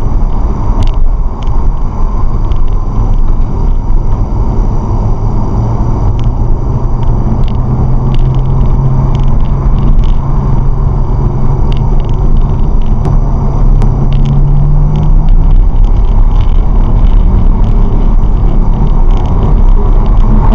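Car driving on a highway, heard inside the cabin: a steady rumble of engine and road noise, with the engine note climbing slowly as the car accelerates and then dropping away about three-quarters of the way through.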